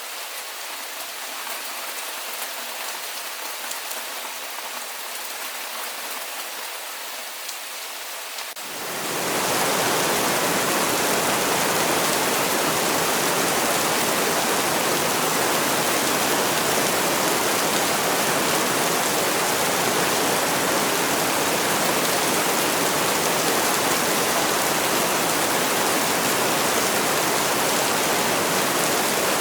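Rain falling as a steady hiss with fine drop ticks. About nine seconds in it swells within a second into a louder, fuller, deeper steady downpour that holds to the end.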